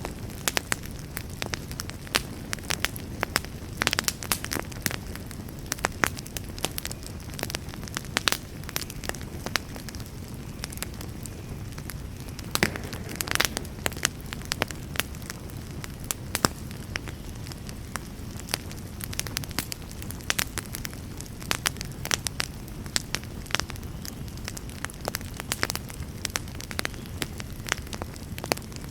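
Wood fire burning in a fireplace: a steady low rush of flame with frequent, irregular crackles and sharp pops.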